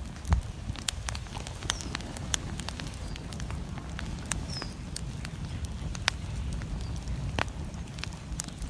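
Wood fire crackling with frequent sharp, irregular pops over a steady low rumble of wind and flames.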